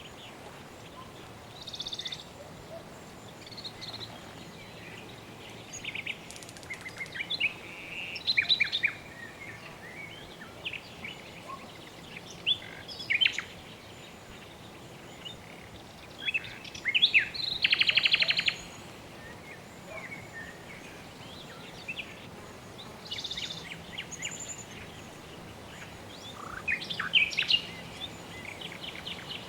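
Birds chirping and calling now and then over a steady soft background noise, with one rapid trill a little past halfway.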